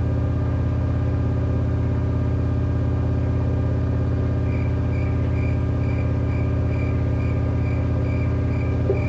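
LG inverter direct-drive washing machine spinning its drum at a steady speed, a loud even hum, to drain the remaining wash water from the laundry. From about halfway in a faint high tick repeats about three times a second, and a single click comes near the end.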